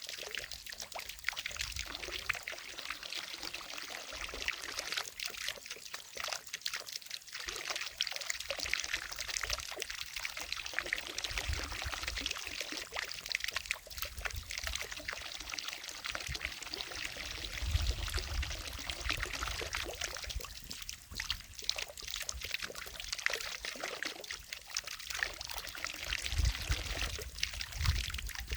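Water from a fountain falling and splashing steadily into a lake, a continuous pouring, trickling sound full of small splashes. A low rumble comes and goes a few times.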